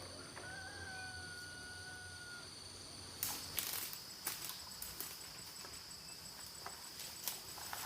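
Forest ambience: insects trill steadily in high, unbroken tones. A single long whistled note, likely a bird, is held for about two seconds early on. From about three seconds in, scattered sharp clicks and knocks come in.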